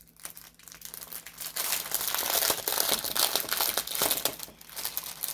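Packaging crinkling and rustling as it is handled and opened, with bursts of crackle, quieter at first and busier from about a second and a half in.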